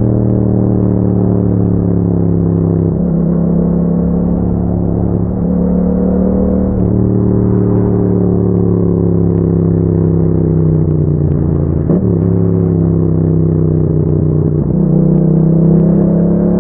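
2021 Yamaha MT-07's parallel-twin engine running through an Akrapovic exhaust while riding. Its note eases slowly and jumps abruptly in pitch several times, then rises and gets louder near the end as the throttle opens.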